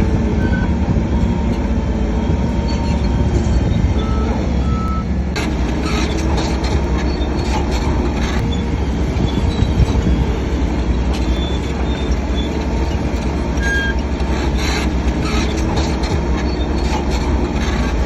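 Bulldozer's diesel engine running heavily under load, with metallic clanking of the steel tracks and a few brief high squeaks; the clatter is thickest about six to eight seconds in.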